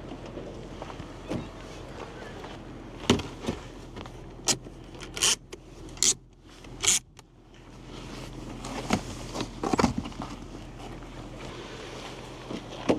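Handling noises: a string of sharp clicks, knocks and clatters, like keys and gear being handled, over a steady low hum.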